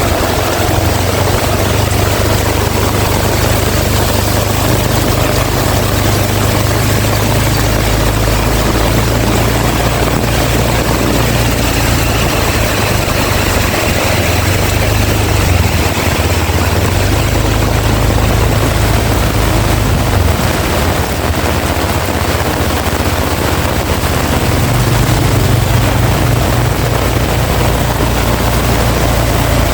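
Heavy rain pouring steadily, with strong wind making a deep rumble that shifts in strength throughout.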